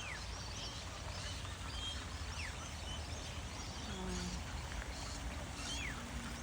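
Wild birds calling and chirping around a lake, with several short falling whistles, over a steady low background rumble.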